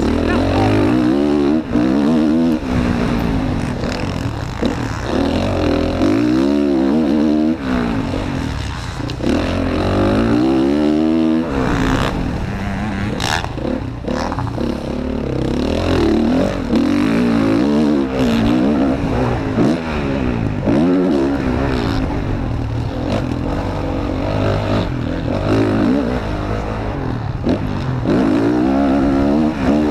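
Motocross bike engine heard onboard during a race, revving up and down again and again as the rider accelerates, shifts and backs off. There are a few sharp knocks about twelve seconds in.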